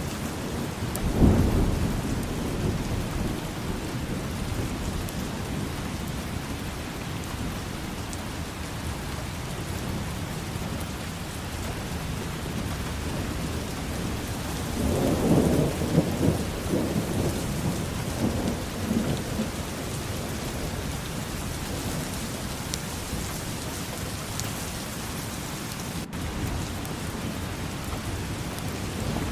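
Steady rain falling, with thunder rumbling twice: briefly about a second in, and for a few seconds around the middle.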